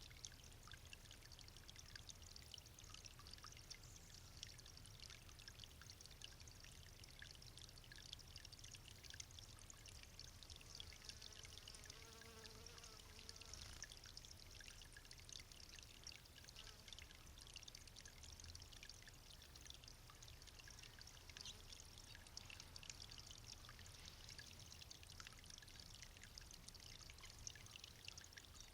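Garden fountain water trickling and splashing steadily. A short hum comes in about twelve seconds in.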